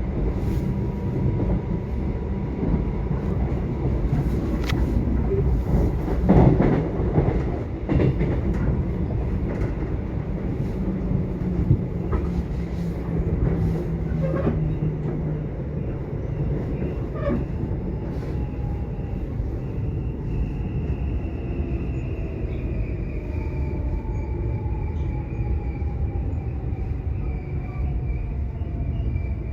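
Subway train running: a steady low rumble with a few knocks and clacks in the first third. In the second half a whine falls slowly in pitch.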